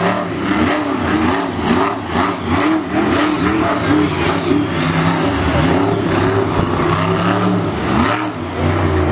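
A big vehicle engine revved hard in quick repeated throttle blips, its pitch rising and falling about two to three times a second, then holding steadier in the second half.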